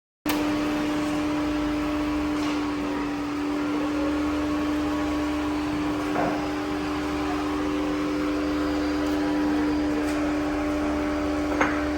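Steady mechanical hum with one constant low tone, like a fan or air conditioner running in a small enclosed space, with a couple of faint clicks.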